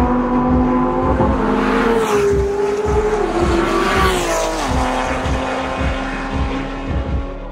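A sports car engine running hard as the car passes on a race track, its sustained note dropping in pitch in steps as it goes by.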